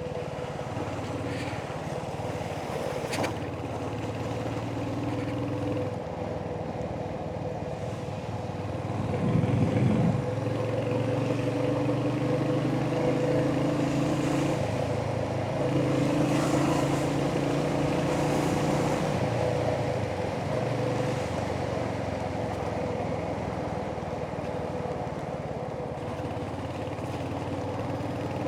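Royal Enfield Hunter 350's single-cylinder engine running under way, picking up revs and getting louder about nine seconds in, then easing off again around twenty seconds. A sharp click about three seconds in.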